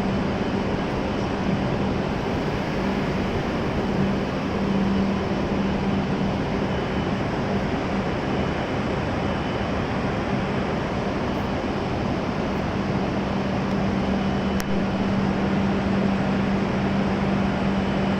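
Steady droning noise of a Shinkansen station platform, with a constant low hum throughout and one faint click about fifteen seconds in.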